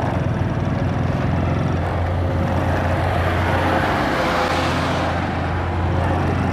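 Motorcycle engine running steadily, with a rush of noise that swells and fades about four to five seconds in.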